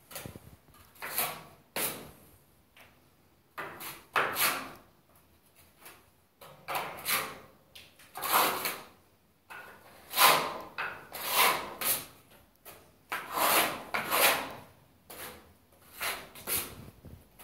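Plastering trowel scraping gypsum plaster onto the stair wall's edge in repeated, irregular strokes, roughly one every second.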